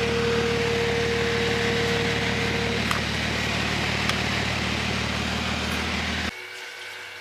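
BMW M240's turbocharged inline-six running steadily under a wash of road noise, heard from a car on the move; the sound drops away suddenly about six seconds in, leaving a much quieter hum.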